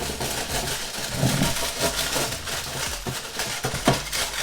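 Aluminium foil lining an air fryer basket crinkling and rustling as it is handled and oiled, with scattered small clicks and knocks.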